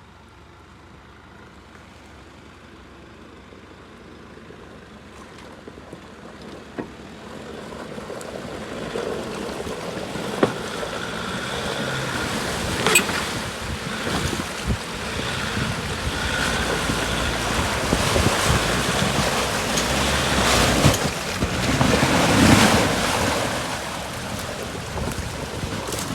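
Off-road 4x4 driving through water and mud, the splashing and running noise growing steadily louder, with a few sharp knocks and louder surges near the end.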